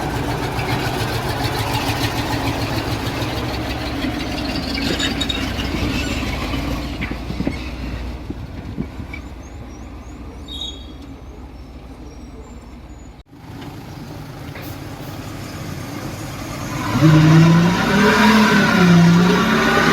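Heavy construction machinery engine running steadily, fading lower about halfway through. Near the end a louder engine comes in, its pitch rising and falling as it revs.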